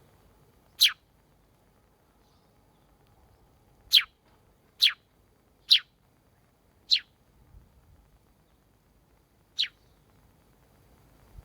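A sparrow chirping: six single short chirps at uneven intervals, each a quick downward note.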